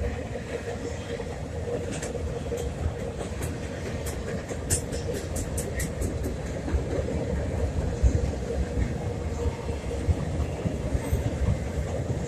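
Double-stack container train's cars rolling across a steel trestle: a steady low rumble of wheels and cars. A run of quick, faint high clicks comes from about two to six seconds in.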